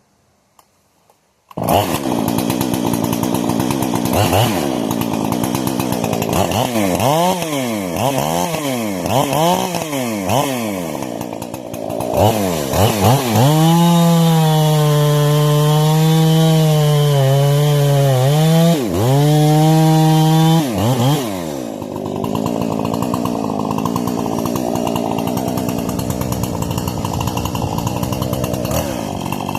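Husqvarna 460 two-stroke chainsaw with a modified muffler and carburetor, running in on break-in. It comes in suddenly about a second and a half in, is blipped up and down several times, and is held at high revs for about seven seconds with one brief dip. It then drops back to a lower, steady run.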